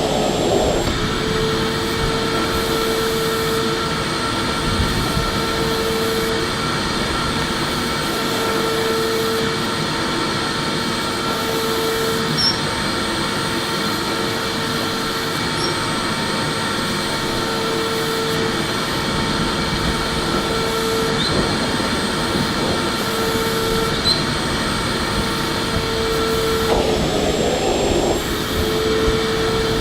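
Vacuum cleaner running steadily: a continuous motor whine and airflow rush. A lower hum in it swells and fades about every three seconds.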